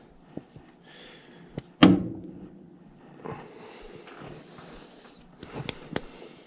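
Hands working on plastic drain fittings: one sharp knock with a short ring about two seconds in, a few lighter clicks, and scraping and rustling.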